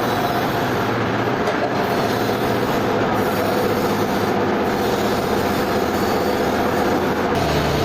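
Sawmill machinery running steadily: a loud, continuous mechanical noise with a low hum under it.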